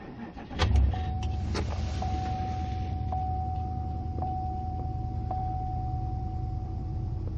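Cold start of a Pontiac Grand Prix GXP's LS4 V8: the engine catches about half a second in and settles into a steady idle while misfiring in cylinder 7. A thin steady high tone runs over the idle from about a second in until near the end.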